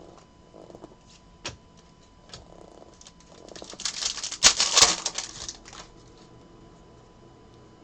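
Trading cards being handled: a few light clicks, then a burst of rapid flicking and rustling about four to five seconds in as a stack of cards is thumbed through.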